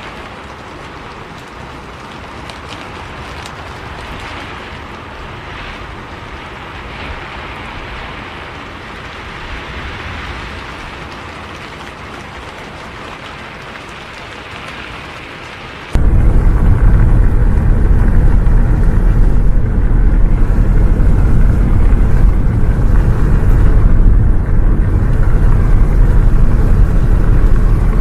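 Steady rain hiss, then an abrupt switch just past halfway to a much louder, steady low rumble of a bus running on the road.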